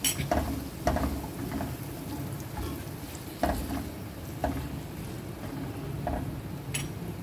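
Raw potato sticks frying in hot oil in a nonstick pan, a steady sizzle, while a spatula stirs them. The spatula knocks and scrapes against the pan at irregular moments.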